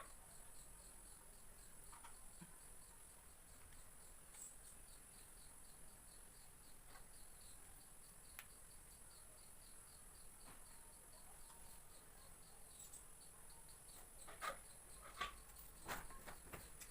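Near silence with faint, steady insect chirping: a high pulse repeating about four times a second. A few light clicks come near the end.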